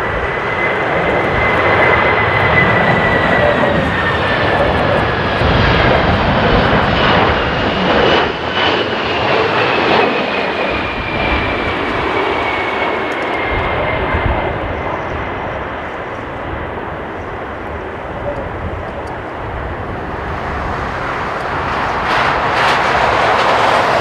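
Jet airliner's turbofan engines running as it passes, a loud steady rush carrying a thin whine that slowly falls in pitch over the first dozen seconds. Strong gusty wind buffets the microphone.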